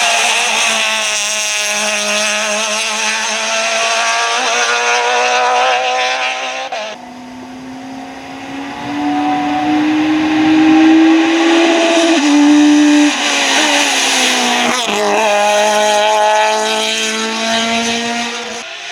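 Rally car engines at high revs under hard acceleration. The sound changes abruptly about seven seconds in, then the engine note climbs steadily and drops sharply at a gear change near the middle.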